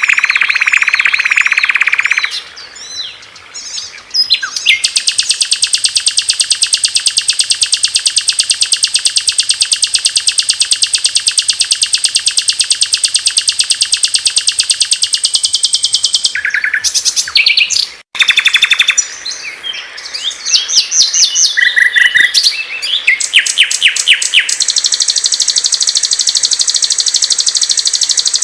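Recorded songs of several small songbirds spliced one after another, as in a masteran tutor track. A warbling phrase gives way to a long, fast, high trill lasting about ten seconds, then sharp chirps after an abrupt cut, and another fast trill near the end.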